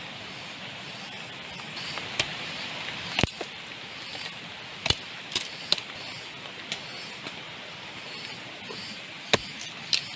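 Steady rain, with about eight sharp knocks or cracks at irregular intervals over it.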